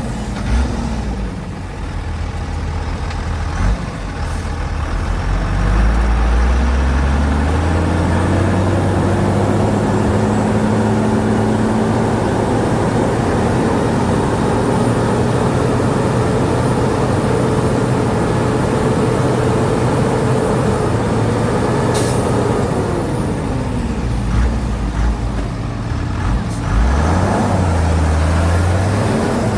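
Heavy diesel engine working under load: it revs up a few seconds in, holds high and steady for about fifteen seconds, then drops back and revs up again near the end. A single sharp click comes as the revs start to fall.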